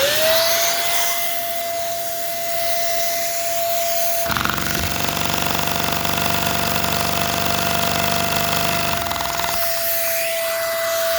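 A vacuum cleaner motor, the suction source, runs with a steady high whine. From about four seconds in, the 3D-printed-flywheel Lego single-cylinder vacuum engine clatters rapidly until about nine and a half seconds, when the rattle stops. The builder puts the rattle down to the engine running fast enough to rip itself apart: a part came loose from the main piston.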